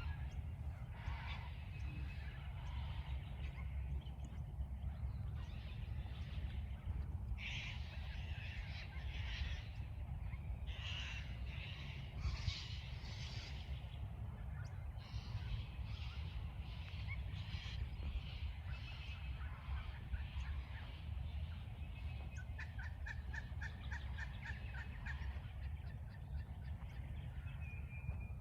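Cockatoos screeching in harsh, raspy calls that come in clusters, with a rapid run of short chattering notes near the end. A steady low rumble runs underneath.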